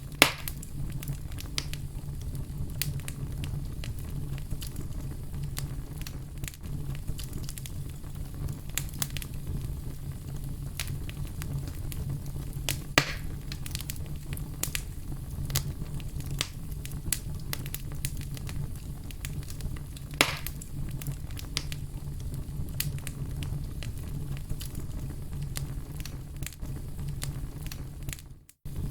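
Wood fire crackling with many small clicks over a steady low rumble, with a few louder pops. The sound drops out for a moment near the end.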